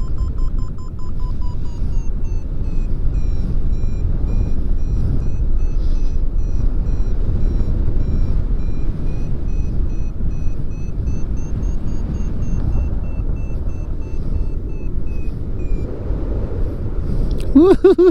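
Wind rushing over the microphone in flight, with a paragliding variometer beeping in a quick, steady train whose pitch drifts slowly up and down, the audio signal of climbing in lift. A voice breaks in right at the end.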